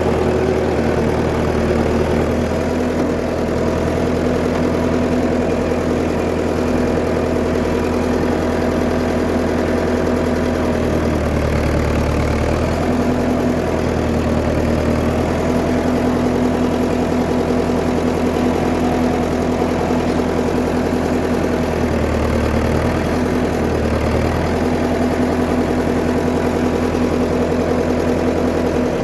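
1959 Fordson Power Major tractor engine running steadily at idle. Its low note shifts briefly twice, about eleven seconds in and again near twenty-two seconds.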